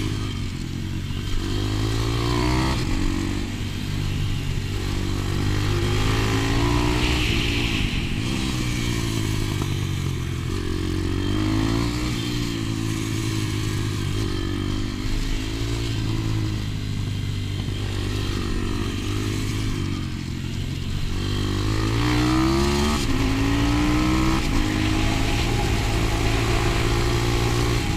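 125 cc pit bike engine revving hard on a lap, its pitch climbing in repeated rising sweeps and dropping back at each gear change or braking point.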